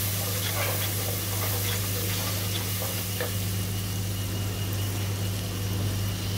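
Onion and spice masala with ginger-garlic paste sizzling in a nonstick pot, with a few light scrapes of a wooden spatula as it is mixed. A steady low hum runs underneath.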